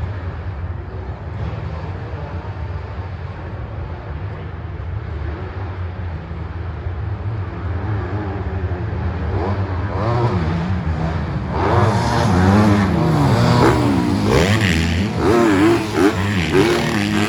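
Motocross dirt bikes racing: a steady distant engine drone, then bikes come close and get louder about ten seconds in, their engines revving up and down in quick sweeps.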